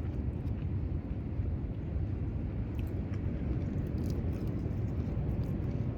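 Steady low rumble of wind buffeting the microphone outdoors at the beach, with a few faint clicks.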